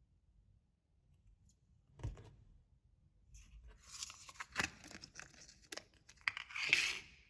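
Clear slime with glitter being worked by hand, giving sticky crackles and snaps: a single sharp pop about two seconds in, then a run of crackles from about four seconds that is loudest near the end.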